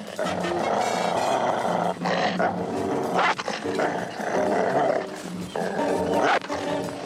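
A guard dog barking and growling in loud repeated outbursts, with music underneath.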